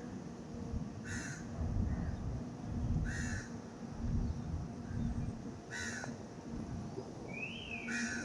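Short harsh calls from the sky, four in all, about two seconds apart, with a brief rising-and-falling whistle just before the last one. Low rumble and a steady low hum run underneath.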